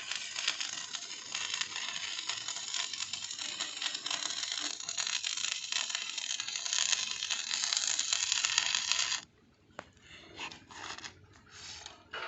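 Electric arc welding on steel: a steady, dense crackling sizzle that cuts off abruptly about nine seconds in as the arc is broken, followed by a few short, quieter bursts.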